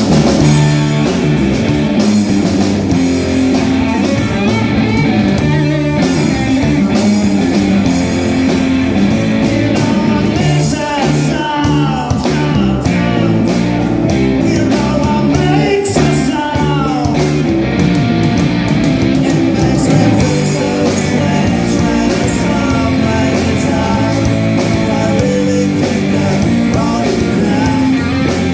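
Live rock band playing: guitar, bass guitar and drum kit, with a sung lead vocal.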